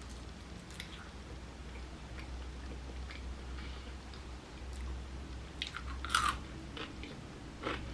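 Close-mic chewing of a homemade potato chip that is crispy at the edges and soft inside: mostly soft chewing with a few short crunches, the loudest about six seconds in. A steady low hum runs underneath.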